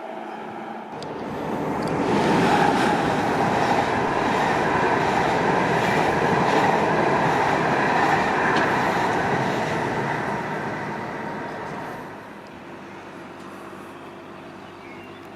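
A train going by on the line, its noise building about a second in, staying loud for around nine seconds with faint clicks from the wheels over the rail joints, then fading away.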